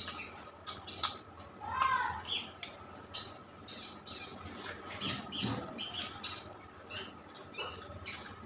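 Close-miked wet chewing and lip-smacking of a mouthful of rice and curry, a string of short squelchy clicks and squeaks about once or twice a second.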